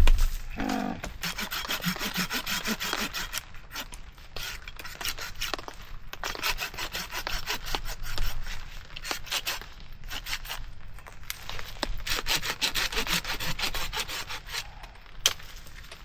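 Hand saw cutting through a piece of firewood, in three runs of quick back-and-forth strokes with short pauses between.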